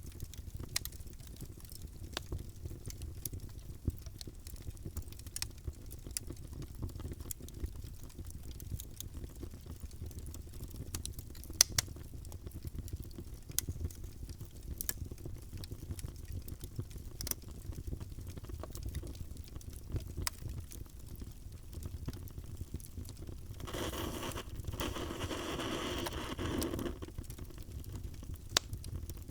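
Wood fire burning in a fireplace: a steady low rumble with scattered sharp crackles and pops. Near the end a louder hiss rises for about three seconds.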